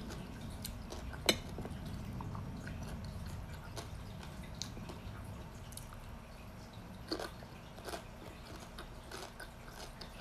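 A person chewing and biting food with wet mouth smacks and clicks, with one sharp click about a second in and a few softer ones later, over a steady low hum.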